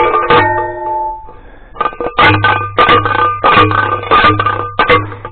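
Manual T-post driver repeatedly slamming down onto a steel T-post, about two metallic clangs a second, each ringing briefly as the post is driven into the ground.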